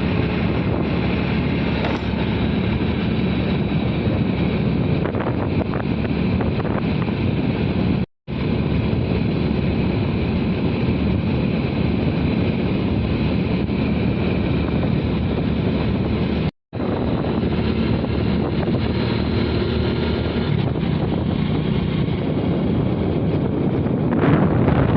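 Steady wind noise on the microphone over a low engine hum. The sound cuts out completely twice for a split second, about 8 and 16 seconds in.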